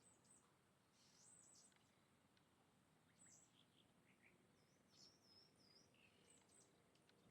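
Birds chirping faintly: scattered short, high chirps and whistled notes, including a wavering whistle about five seconds in, over a low steady hiss.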